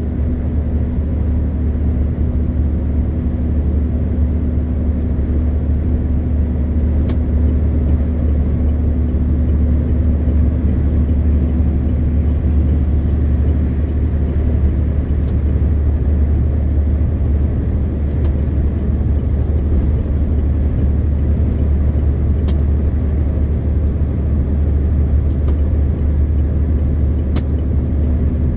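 MAN TGX 520 truck's six-cylinder diesel engine and road noise at a steady cruise: a loud, even low drone with no change in engine speed. A faint high whine sits above it, rising slightly about a third of the way in and then holding.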